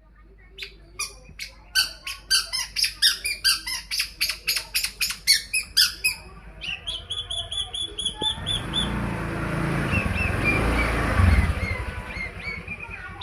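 Long-tailed shrike (pentet) calling: a run of harsh rasping notes at about three a second, then a quick series of repeated whistled notes. In the second half a rushing noise swells up, loudest near the end, with faint chirps still showing through it.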